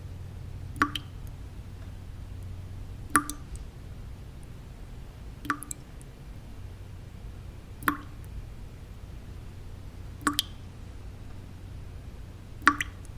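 Water drops falling one at a time at an even pace, about one every two and a half seconds, six in all. Each is a sharp plink, some with a smaller drip just after. They sit over a steady low white-noise bed.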